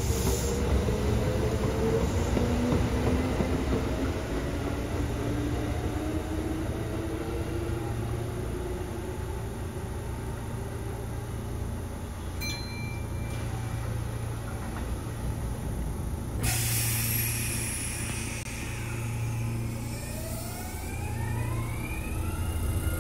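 Electric commuter trains running through a station, with a steady low rumble. A train's motor whine rises in pitch over the first few seconds. Near the end a train at the platform gives off several whining tones that climb together as it picks up speed.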